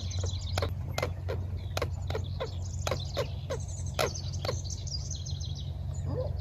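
Wild birds calling: a rapid run of short, sharp chirps, about three a second, with high twittering above them, over a steady low hum.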